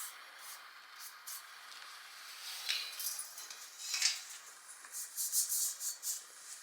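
Light metallic clinks and rattles in short bursts: a couple about two and four seconds in, then a quick run of them near the end.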